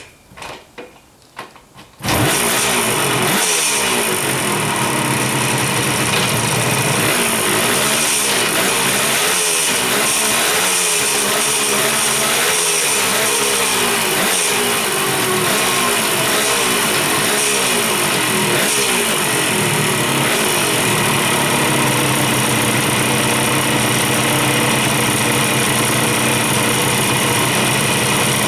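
Kawasaki 350SS two-stroke three-cylinder engine started: a few short knocks, then it catches about two seconds in. It is revved up and down repeatedly, climbing freely, then settles to a steady idle near the end.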